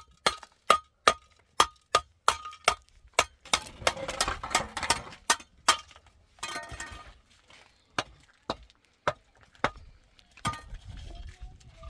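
Repeated sharp knocks, about two or three a second with a slight ring to each, mixed with scraping for a few seconds in the middle, then slowing to a few spaced strikes near the end.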